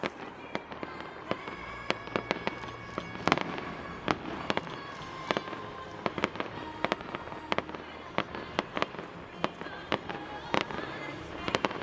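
Fireworks display: a rapid, irregular series of sharp bangs and cracks from bursting shells, several a second at times, over a steady background rumble and hiss.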